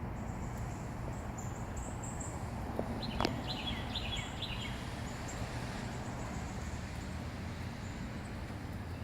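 Steady low rumble of gusty wind on the microphone. About three seconds in there is a sharp click, then a bird chirps briefly several times.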